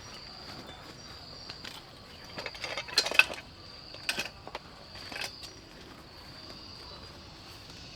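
Insects chirring steadily in a high, even pitch, with a quick cluster of knocks and clatter about three seconds in and two single knocks a second or two later.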